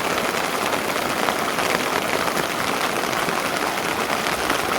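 Steady rain, an even hiss of falling drops.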